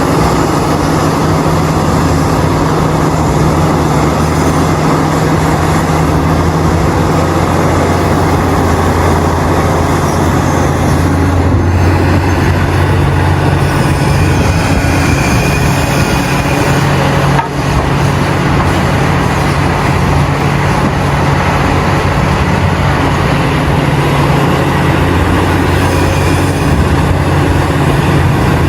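Heavy diesel machinery running continuously, with a deep steady engine drone: large excavators and dump trucks working at a mine. There is a brief dip in level about two-thirds of the way through.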